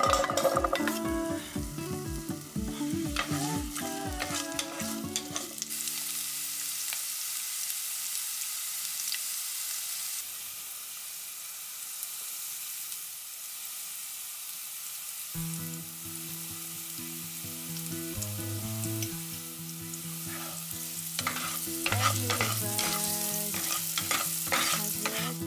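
Asparagus pieces and coriander seeds sizzling in hot oil in a non-stick frying pan, a steady hiss of frying. Background music plays over the first few seconds and comes back about halfway through, on top of the sizzling.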